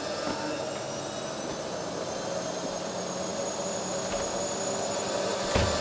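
A drama sound-design swell: a steady, jet-like whooshing drone with high tones gliding upward, growing slowly louder. It ends in a sharp hit near the end, leading into the theme music.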